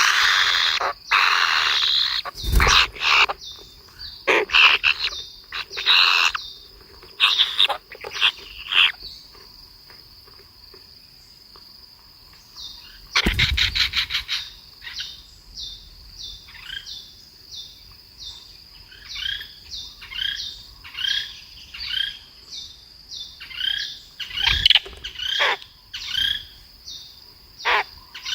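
Small birds chirping, short calls repeated about once a second, over a steady high-pitched whine. A few loud sudden sounds break in: a thump a couple of seconds in, a quick rattle about halfway, and another thump near the end.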